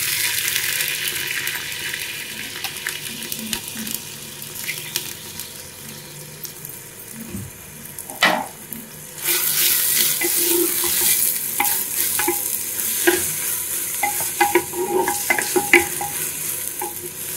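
Onions added to a pan of hot oil and fried okra, sizzling hard at first, then stirred with a spoon with scattered scrapes and clicks. A knock about eight seconds in, and the sizzle grows louder again about a second later.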